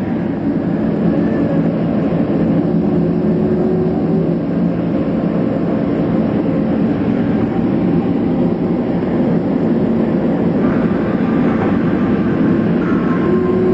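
Steady cabin noise inside a Boeing 767 taxiing on jet engine power: an even rumble with a steady low hum through it.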